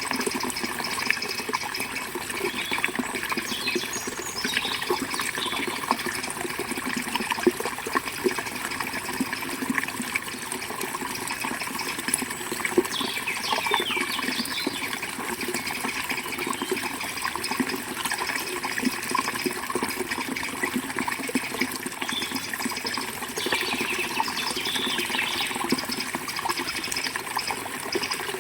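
Forest river water flowing steadily, with birds chirping in short bursts a few times.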